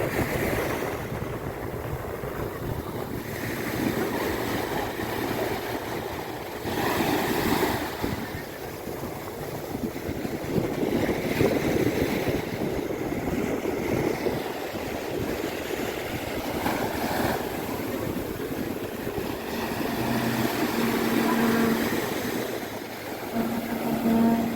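Big ocean surf breaking on a beach, the wash swelling and easing every few seconds, with wind rumbling on the microphone.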